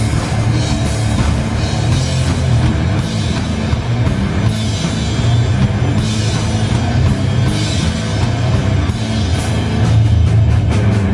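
A metal band playing live and loud: distorted guitars, bass and a full drum kit with crashing cymbals, in a dense, unbroken wall of sound.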